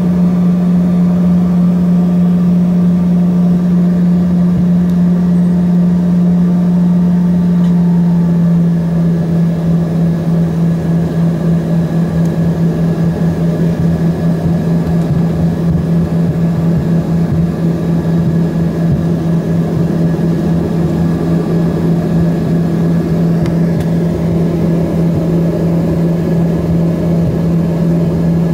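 Steady cabin drone of an Embraer ERJ-145 regional jet on the ground with its rear-mounted Rolls-Royce AE 3007 turbofans running: a strong low hum with a thin whine above it, heard from inside the cabin.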